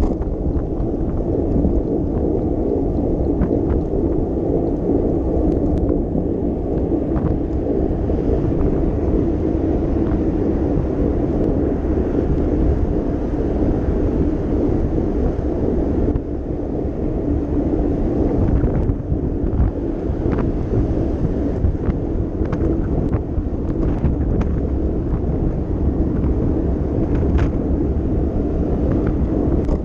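Steady wind rumble on the microphone of a camera riding along on a moving bicycle, with a few faint ticks here and there.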